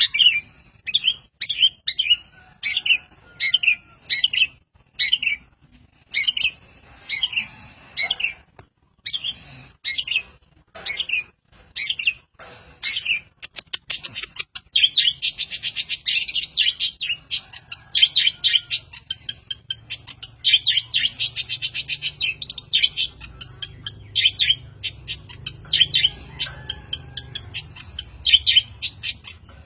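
A mimic songbird singing: short sharp notes repeated about twice a second, then from about halfway a faster, harsh chattering run mixed in among the calls.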